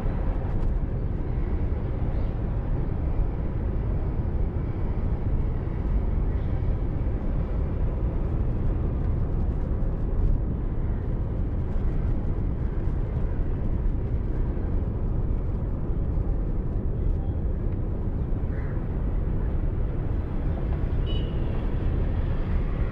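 Steady road and engine noise of a moving car heard from inside the cabin, a low, even rumble without changes.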